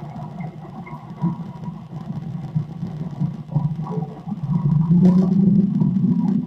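Recorded outdoor background noise played back: a low steady hum and rumble like distant city noise, which grows louder about four and a half seconds in.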